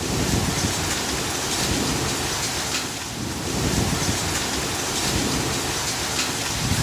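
Heavy rain pouring in a thunderstorm, with a continuous low rumble of thunder beneath it. It is steady throughout, easing briefly about three seconds in.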